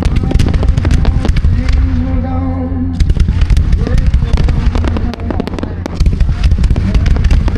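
Fireworks barrage: a rapid, dense string of bangs and crackles, many reports a second, with music of long held low notes underneath.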